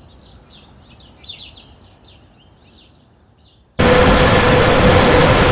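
Faint bird chirping over a low hiss, cut off almost four seconds in by an abrupt wall of loud, harsh amplified noise with a steady hum. The noise is an amplified suitcase being rubbed underneath with an amplified toy shovel.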